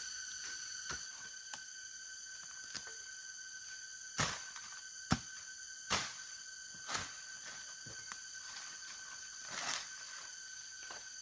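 Scattered short crackles and knocks, the loudest about four to six seconds in, like things being handled or rustled, over a steady high-pitched whine.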